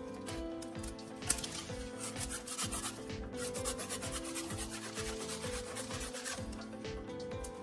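Repeated scraping strokes, a rough rubbing or rasping sound, over soft background music with held notes.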